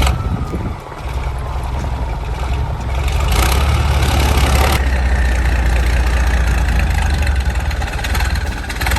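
Heavy truck engine running with a low, steady note that gets louder about three seconds in, with a burst of hiss around the middle.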